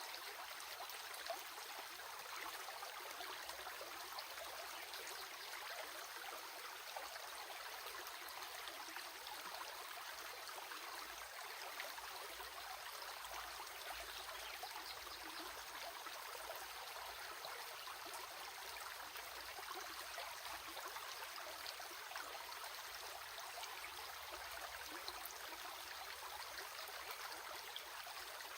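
Stream water running steadily, a continuous trickling and babbling.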